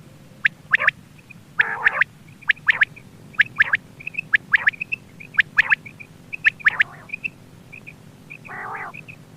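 Quail calling: quick clusters of short, sharp, high notes, with softer short notes between them, and two longer, lower calls, one near the start and one near the end.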